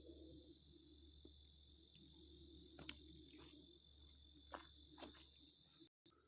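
Faint steady high-pitched chorus of insects such as crickets or katydids, with a few soft clicks, cutting off abruptly just before the end.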